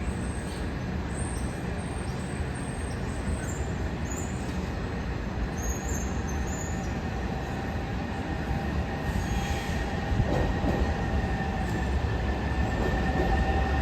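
Miami Metrorail train pulling into the elevated station, a steady rumble with brief high-pitched wheel squeals in the first half. A steady whine comes in about nine seconds in, and the whole sound grows louder toward the end.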